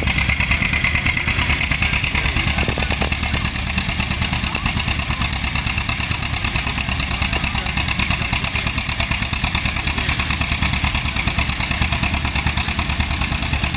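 1936 John Deere A tractor's two-cylinder engine running hard and steady with a fast, even exhaust beat as it pulls the sled.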